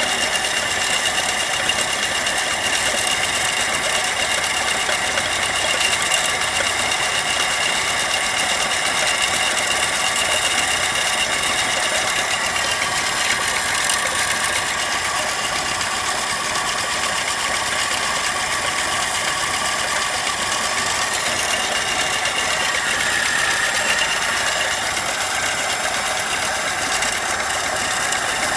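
VAZ-2103 (Lada) inline-four petrol engine idling steadily, with a fast light ticking and rattling over the running: an extraneous engine noise whose cause is not yet known.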